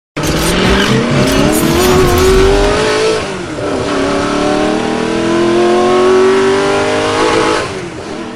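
Car engine accelerating hard, its note climbing, dropping once about three seconds in as if shifting up, then climbing again.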